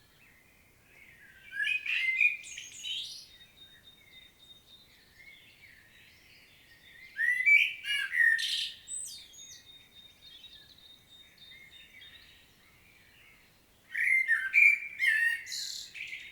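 Common blackbird singing: three loud song phrases of about two seconds each, some six seconds apart, with faint chirps and a thin steady high tone between them.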